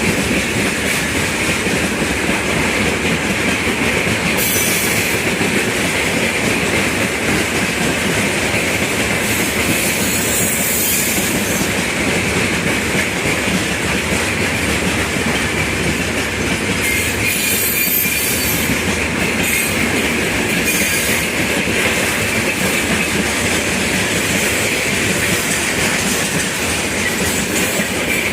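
Freight train rolling steadily past, a continuous rumble and clatter of wheels over the rails, with brief high-pitched wheel squeals a few times.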